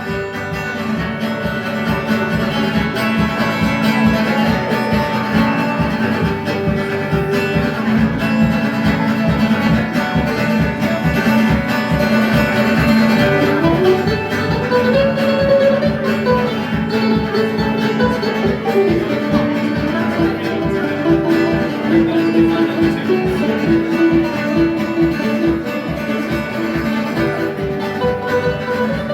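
Live band playing an instrumental break with no singing: guitars over a steady beat, with a lead melody line that wanders up and then back down about halfway through.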